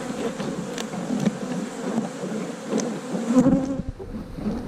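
Honey bees from a large, opened colony buzzing all around, with many single bees whining past close by, their pitch sliding up and down. A few faint ticks sound among the buzzing.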